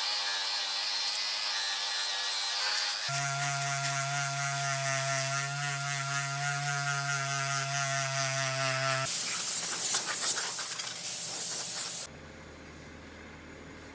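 Shop machinery in short segments that change abruptly: a motor whine, then a steady wavering machine hum, then about three seconds of loud, harsh crackling noise, which cuts off suddenly to a faint low hum.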